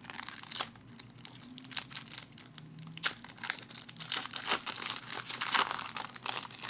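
Foil wrapper of a hockey card pack being torn open and crumpled, with sharp crinkles and crackles throughout and a denser burst of crinkling near the end.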